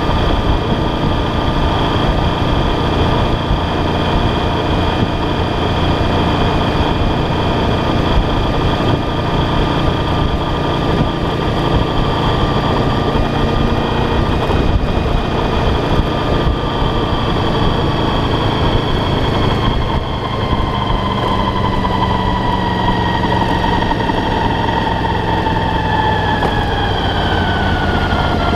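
Motorcycle engine running steadily, heard from on the bike with wind noise over it. From about twenty seconds in, the engine note falls steadily as the bike slows, backing off the throttle into a hairpin bend.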